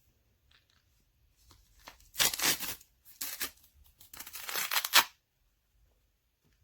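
Three loud ripping tears, about two, three and four seconds in; the last is the longest, about a second.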